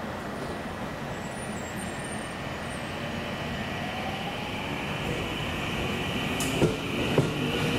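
Electric train picking up speed: a steady running rumble with a motor whine rising in pitch from about halfway, and wheels clicking over rail joints near the end as it grows louder.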